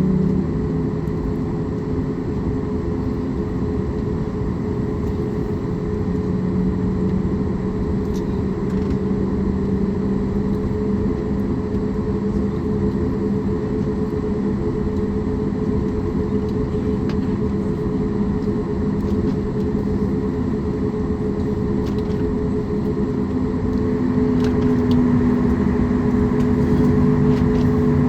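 Steady drone inside a Boeing 737 MAX 8 cabin on the ground, with several steady tones over a noisy hum. It gets a little louder near the end.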